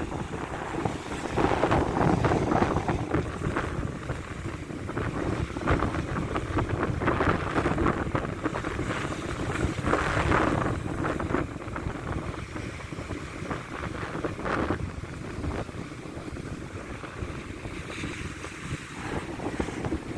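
Strong wind buffeting the microphone over the steady noise of large sea waves breaking, swelling louder several times.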